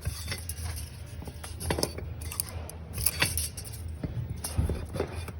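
Scattered metal clicks and clinks of tools being handled, over a steady low hum.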